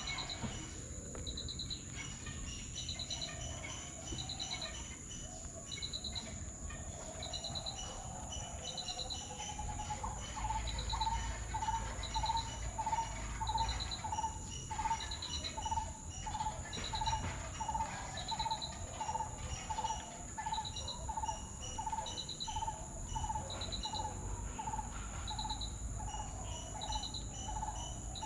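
Outdoor nature ambience of insects and birds: a steady high insect drone with short pulsed chirps about every second and a half. About ten seconds in, a lower call starts repeating about twice a second.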